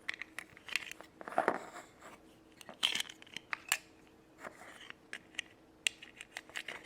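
Small hard-plastic clicks and crinkly rustling, irregular and many: a Magic Clip doll's plastic dress being handled and snapped onto the doll.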